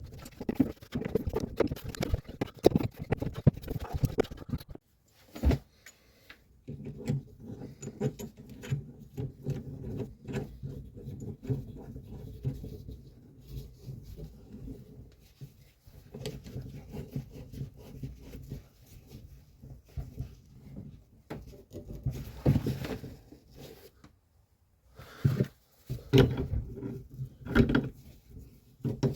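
Irregular clicks, knocks and rattles of hand work on boiler parts and pipe fittings, over a low steady hum that stops and restarts a few times.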